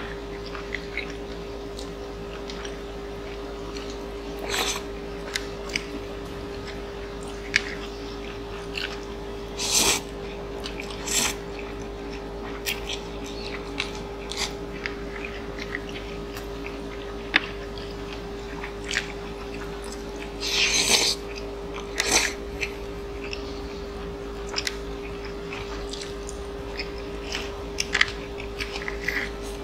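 Mukbang eating sounds of two people eating Korean food with chopsticks close to the microphone: chewing and biting in scattered short bursts and clicks, over a steady faint hum.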